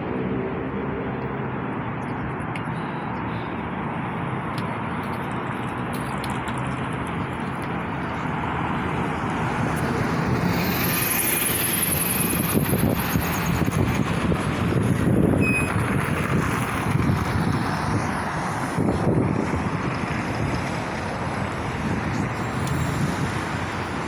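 Road traffic with trucks passing: a steady rush of engines and tyres that swells as heavier vehicles go by about halfway through and again near the end, with a short high hiss about eleven seconds in.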